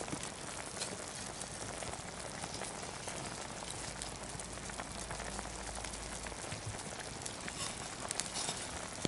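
Wood fire in a Firebox stove crackling steadily with a pot cooking over it: a dense hiss of small pops and sizzles.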